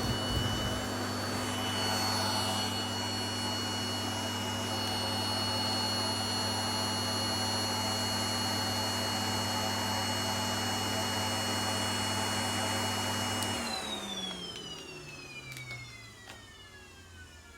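Vacuum cleaner motor running steadily, then switched off about three-quarters of the way through, its whine falling in pitch and fading as the motor spins down.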